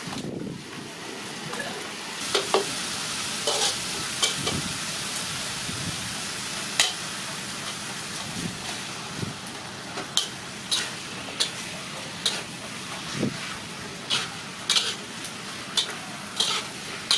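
Chicken sizzling as it fries in hot oil in a metal wok, a steady hiss, with a metal ladle clinking and scraping against the pan as it is stirred. The clinks come more often in the second half.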